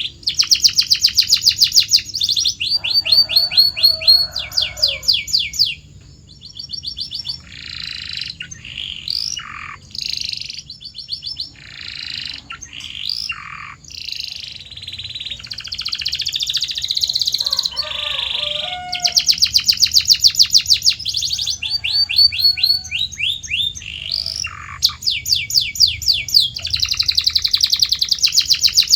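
Domestic canary singing a long song of rapid high trills, switching from one trilled phrase to another every second or so, with a softer stretch of varied single notes and short glides in the middle.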